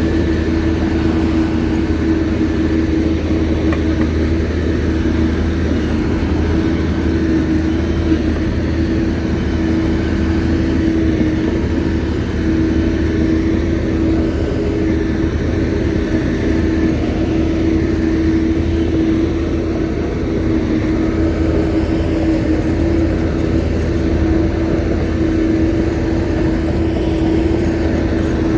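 Shantui bulldozer's diesel engine running steadily, a constant low drone with a held mid-pitched tone over it.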